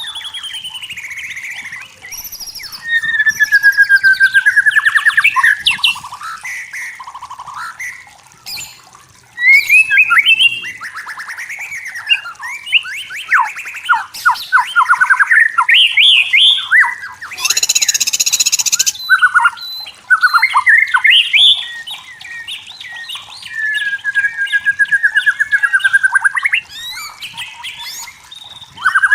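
White-rumped shama singing: loud, varied whistled phrases with rapid trills and gliding notes, delivered in bursts with short pauses. About seventeen seconds in, a harsh hissing burst lasts about a second and a half.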